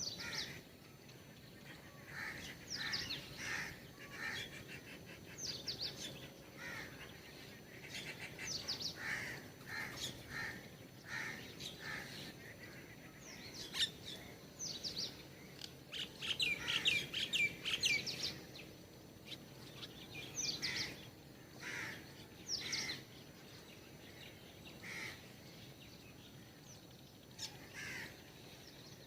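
Small birds chirping and calling: short, high, downward-sweeping calls repeated every second or two, with a busier run of rapid chirps about halfway through.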